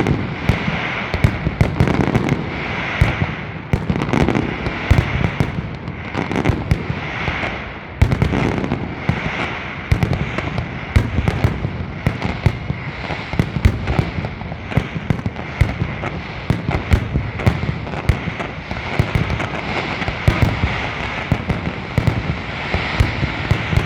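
Large aerial fireworks display: a dense, unbroken barrage of bangs and crackling shells, many sharp reports a second. There is a brief lull about eight seconds in, broken by a loud bang.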